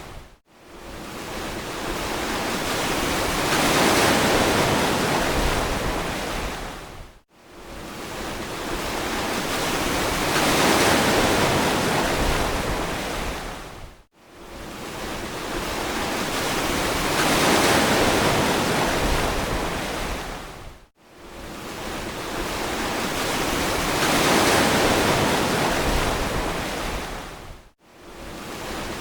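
Ocean surf washing onto a beach: each wave swells to a full rush of spray and fades, about every seven seconds, and each swell breaks off into a brief moment of silence before the next.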